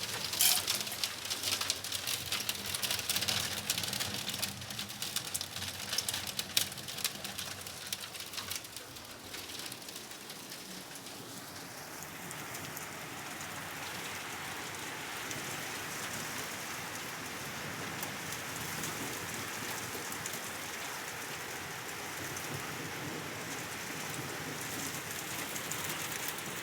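Hail falling and striking the ground and surfaces. For the first eight seconds or so it is a dense patter of sharp ticks, then it settles into an even, steady hiss.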